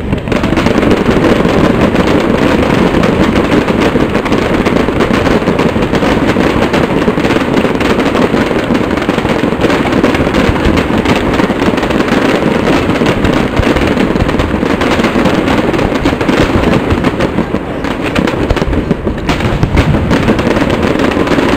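Fireworks display: a dense, unbroken barrage of aerial shell bursts and crackling, loud throughout.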